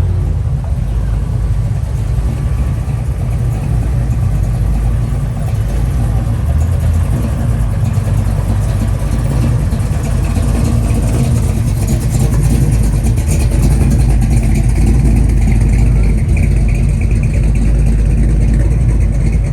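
Car engines running as cars drive slowly past, a deep steady exhaust sound that grows a little louder about halfway through.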